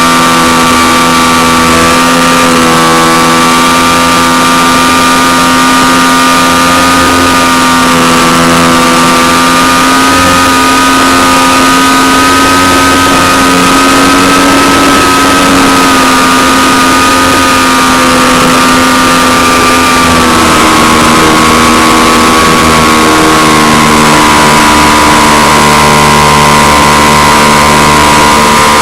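Model aeroplane engine running steadily at high speed with a buzzing, even pitch that drops a little about two-thirds of the way through.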